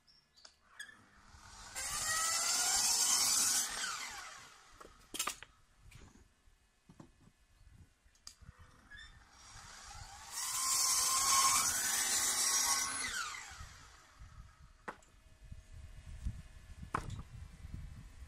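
A power tool running in two bursts of about two to three seconds each, with its pitch sliding up and down, and quieter gaps between them.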